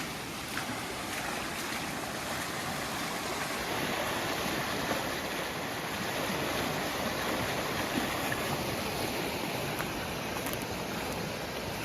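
Storm-swollen creek running high and fast: a steady rush of water.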